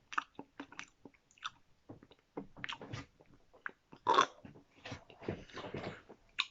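A person biting into and chewing fresh blueberries, close to the microphone: soft wet clicks and squelches at an uneven pace, with a louder burst about four seconds in.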